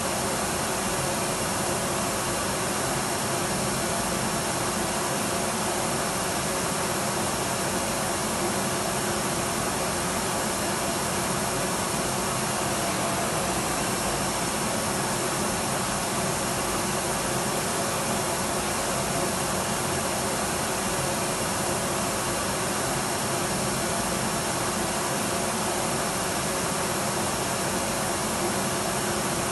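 Electric vacuum cleaner running steadily, a constant motor whine and airflow hiss with faint steady tones and no change in level.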